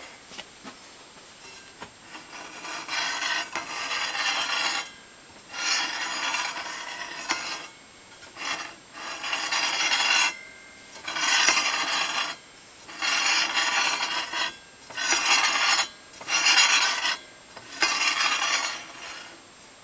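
A wooden board slid back and forth across a DeWalt 7491 table saw's table: about eight scraping strokes of a second or so each, with short pauses between them.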